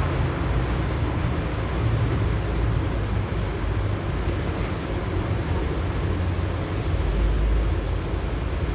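Steady low rumble of engine and road noise inside a LiAZ-6213.65 articulated city bus on the move, growing a little stronger near the end.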